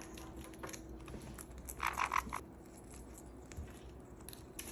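Parrots nibbling at a nut, with faint scattered clicks, and a short raspy parrot call about two seconds in.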